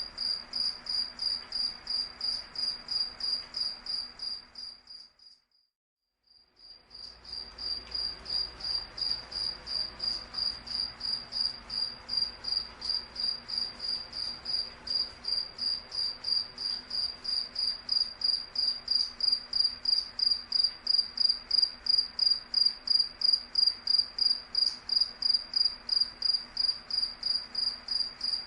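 Cricket chirping steadily, in a fast, even train of high-pitched chirps. The chirping, along with the faint background, cuts out for about a second and a half around five seconds in, then resumes and grows a little louder toward the end.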